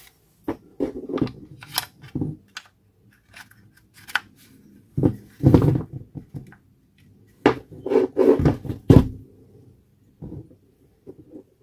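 Hands handling the Makita DGA505 cordless angle grinder and tools at a workbench, likely during disassembly for the switch repair: irregular clicks, knocks and light rattles of plastic and metal parts, in clusters with short pauses between.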